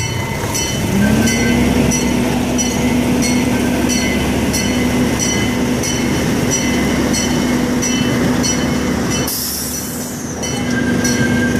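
Miniature zoo train running along its track: a steady hum from the train's drive that rises in pitch about a second in as it picks up speed. Regular clicking a little under two a second runs through it, and a brief hiss comes about nine seconds in.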